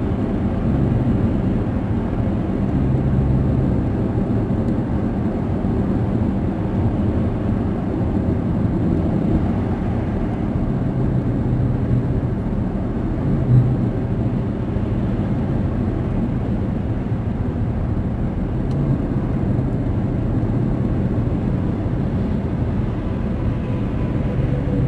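Steady low road rumble inside a car cabin at highway speed: tyre and engine noise, with a single short bump about halfway through.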